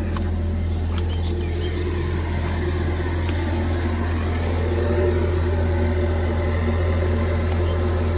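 Ford Focus ST's turbocharged 2.0-litre four-cylinder engine idling steadily shortly after a cold start, slightly louder from about five seconds in.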